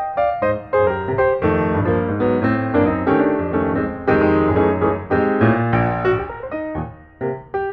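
Piano music: a run of quick notes and chords with bass notes underneath.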